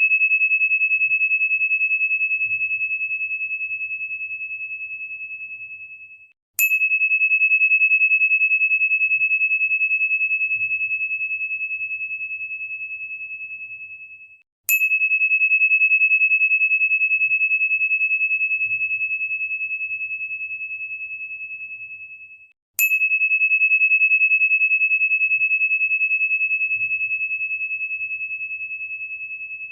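A single pure, high, bell-like crystal tone, struck three times about eight seconds apart; each strike rings out and slowly fades, then cuts off abruptly just before the next.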